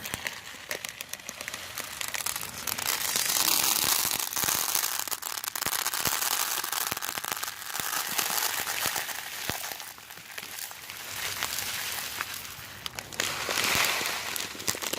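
A bag of wild bird seed being handled and poured from, one-handed: crinkling of the bag and a dense crackle of many small clicks as the seeds spill and rattle.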